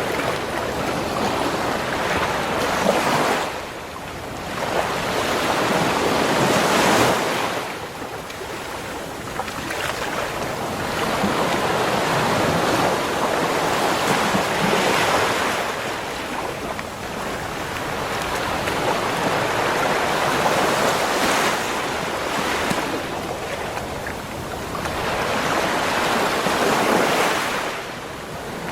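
Ocean waves breaking and washing up a sandy shore: a steady surf that swells and eases every several seconds.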